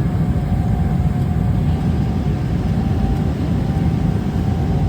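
Steady airliner cabin noise: an even, deep rumble of engines and airflow with a thin constant hum above it.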